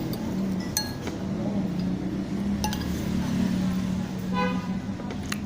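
Eating utensils clinking against a bowl a few times, one clink ringing briefly, over a steady low hum.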